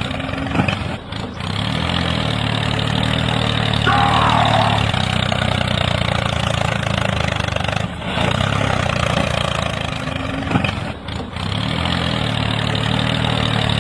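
An engine running steadily at a low, even pitch, with brief dips in level a few times and a short wavering higher-pitched squeak about four seconds in.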